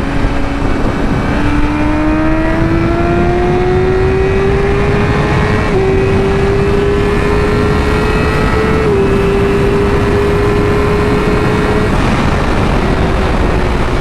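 Yamaha R6 sportbike's inline-four engine pulling under a gentle roll-on, its pitch rising slowly for several seconds and then holding, with two brief dips, under heavy wind rush on a helmet-mounted microphone.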